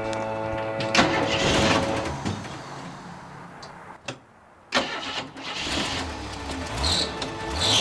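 An old truck's engine starting with a sudden loud burst about a second in, then running, with short rises in pitch near the end as it is revved.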